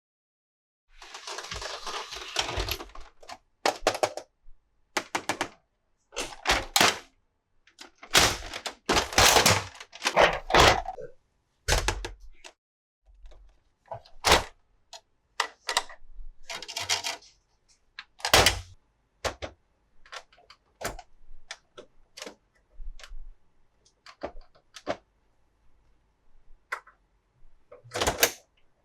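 Plastic toy packaging and toy pieces being handled: a crinkling rustle about a second in, then irregular clicks, snaps and knocks of hard plastic.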